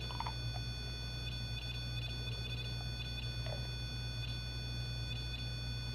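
REM Pod proximity alarm going off: a thin, steady electronic tone with faint short chirps now and then, over a low hum.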